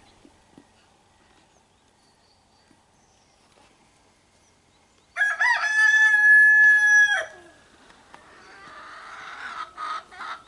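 A rooster crowing once, about five seconds in, a single call of about two seconds that drops in pitch at its end. Near the end, chickens clucking and squawking.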